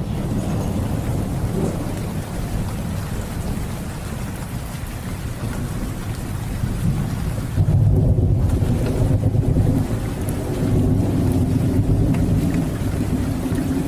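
Steady rain with a low rolling rumble of thunder underneath, which swells about eight seconds in and again a few seconds later.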